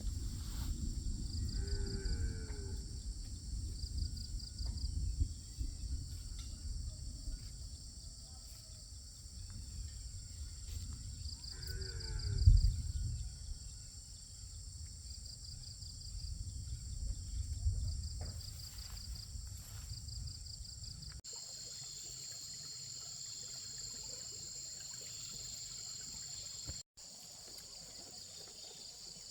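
Insects such as crickets or cicadas keep up a steady high drone with a regularly pulsing chirp. Under it is a low rumbling noise with a thump about twelve seconds in. The rumble stops abruptly about two-thirds of the way through, leaving the insects alone.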